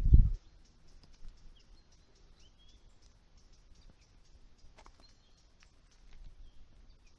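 Faint, scattered bird chirps, short and high, over quiet open-air ambience. A brief low bump of wind or handling on the microphone opens it.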